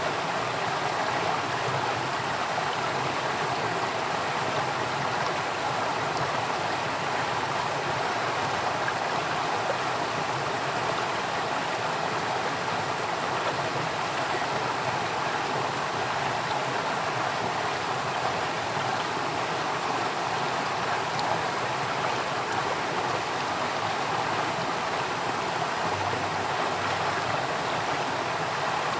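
Flowing water, a stream running steadily over rocks with a continuous even rush.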